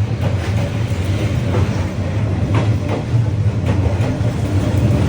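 A diesel-hauled train passing at close range: a loud steady low rumble, with the wheels knocking over rail joints about once a second.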